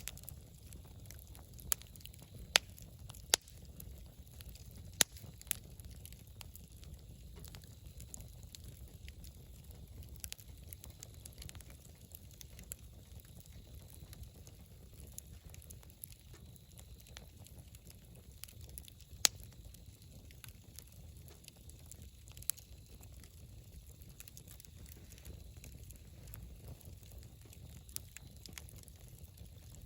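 Wood bonfire crackling over a low steady rumble, with sharp pops: several in the first few seconds, then a few scattered later, one loud one about two-thirds of the way in.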